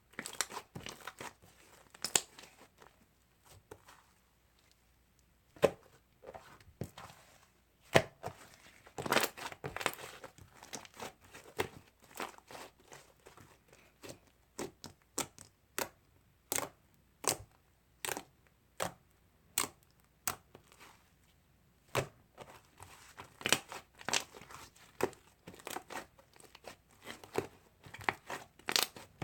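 Slime being squeezed, stretched and poked by hand, giving irregular sharp clicks and pops as air pockets burst, some single and some in quick crackling runs.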